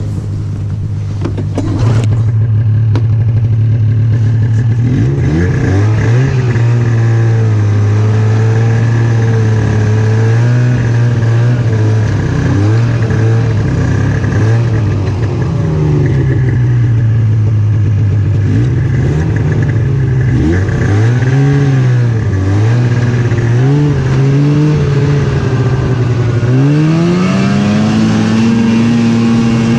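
Snowmobile engine running. Its pitch is steady at first, then from about five seconds in it rises and falls again and again with the throttle, and climbs sharply near the end.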